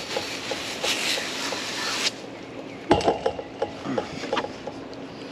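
Water from a hose spraying in a steady hiss for about two seconds, rinsing fish fillets, then cutting off abruptly. A sharp knock follows, then light clicks and clinks of handling on the cleaning table.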